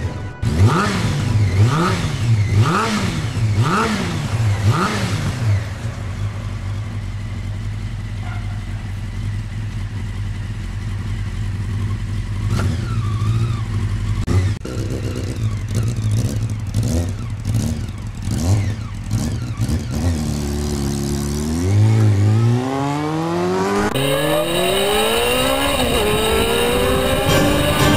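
Honda CBR600F3 motorcycle's inline-four engine revved about five times in quick blips in the first few seconds, each rising and falling in pitch, then running steadily. Later it revs up in long rising sweeps as the bike pulls away, and near the end the sound changes abruptly to the engine running on the road with pitch rising through the gears.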